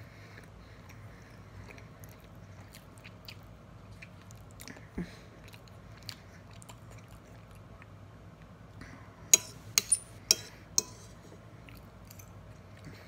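A person chewing a mouthful of soft food, chicken and baked potato, close to the microphone, with small wet mouth clicks. A little past the middle comes a quick run of about five sharp clinks, a fork knocking on the plate.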